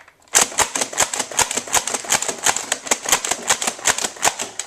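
Nerf Alpha Trooper CS-18 pump-action dart blaster fired rapid fire by fast pumping: a quick run of plastic clacks and dart shots, about six a second. It starts about a third of a second in and stops near the end.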